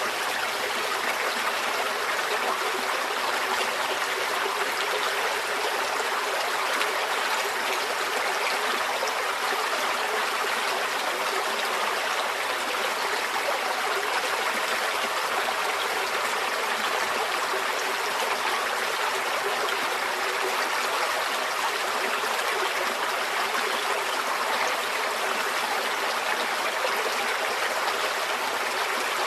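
A small forest stream flowing and trickling over stones: steady, even water noise with no breaks.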